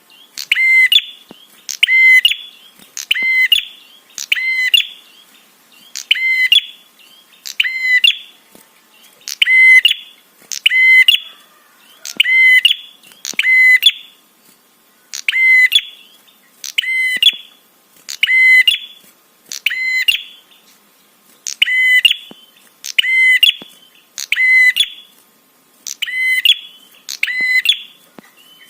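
Prenjak (prinia) calling: one short, sharp, high-pitched call repeated over and over at an even pace, about one every one and a half seconds.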